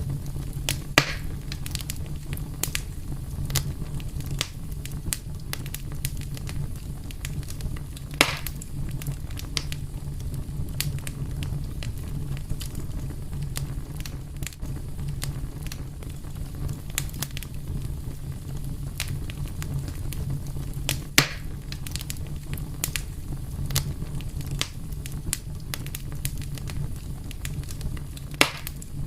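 Wood fire burning with a steady low rumble and constant small crackles, broken by a few louder sharp pops about 1, 8, 21 and 28 seconds in.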